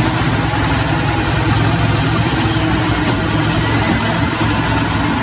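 An engine idling: a steady, loud, low rumble with a fast even pulse.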